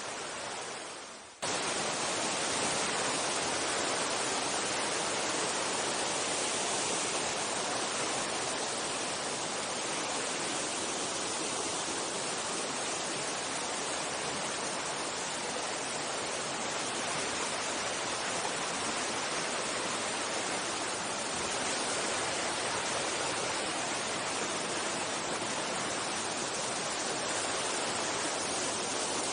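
Steady rush of a mountain stream's flowing water. A little over a second in, it dips briefly and then cuts back in abruptly.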